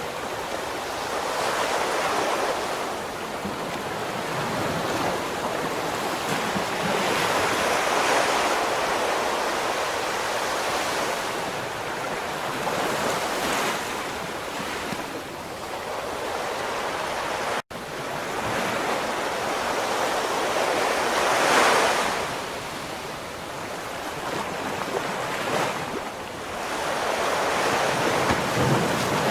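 Ocean surf: waves breaking and washing in, swelling and fading every few seconds, with a brief dropout about two-thirds of the way through.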